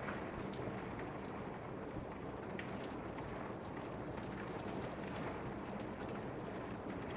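Torrential rain falling: a steady hiss with scattered drops ticking.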